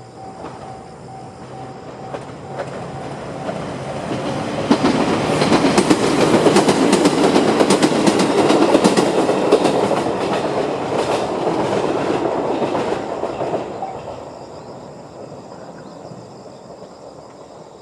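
Chichibu Railway 6000 series electric train passing over a level crossing: it builds up over the first few seconds, is loudest in the middle with the clicking of wheels over rail joints, then fades. Under it the crossing's electronic warning bell (JR standard tone) keeps ringing, and it stops as the train clears, about fourteen seconds in.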